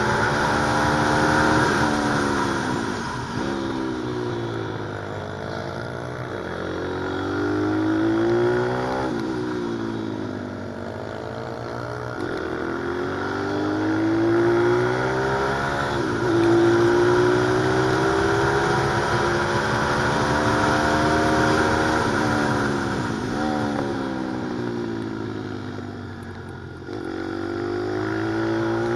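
Pit bike engine at speed, its pitch climbing again and again under acceleration and falling sharply at each gear change or braking point.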